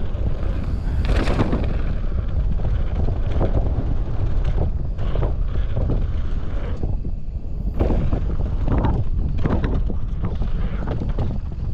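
Mountain bike descending a rough downhill trail: steady wind on the microphone and tyre rumble, with repeated clattering jolts as the bike hits bumps and landings.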